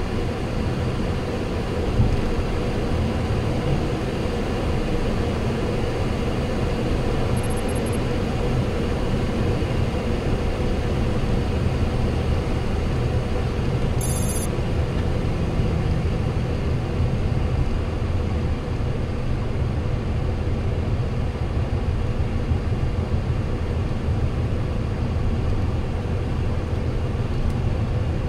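Steady cabin noise on a Boeing 737-800 flight deck after landing: a low rumble under a constant hiss. Two brief high electronic chirps sound over it, a faint one about seven seconds in and a clearer one about fourteen seconds in.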